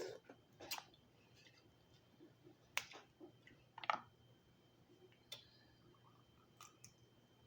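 Scattered faint clicks and snaps of a steamed lobster's shell being handled and cracked apart at the legs, a few seconds apart, two of them sharper near the middle.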